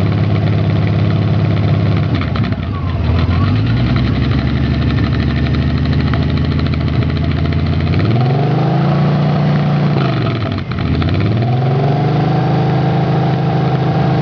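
Honda Rune's 1800 cc flat-six running through gutted, baffle-free exhausts with a deep note: idling, then revved up twice, the first blip falling back to idle and the second held for a few seconds before dropping near the end.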